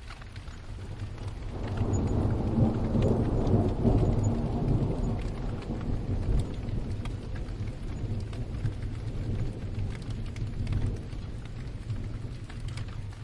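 Steady rain with a roll of thunder that builds about a second and a half in, then rumbles and slowly fades away.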